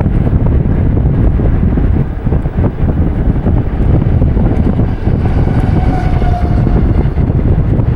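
Loud, steady low rumble of wind buffeting the microphone, with a faint brief whine about five seconds in.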